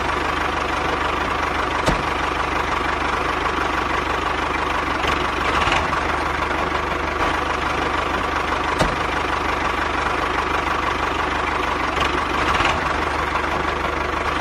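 Small motor running steadily, driving a homemade miniature chaff cutter, with a steady whine and a few sharp clicks.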